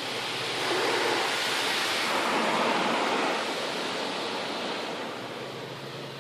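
Car-wash water spray pelting the car, heard from inside the cabin. It swells about a second in and fades toward the end.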